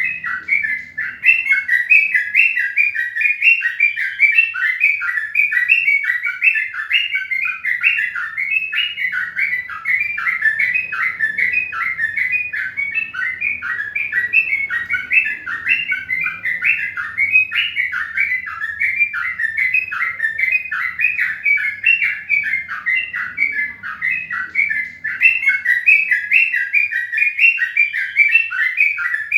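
Birds chirping without pause: a dense run of short, rapid, repeated chirps.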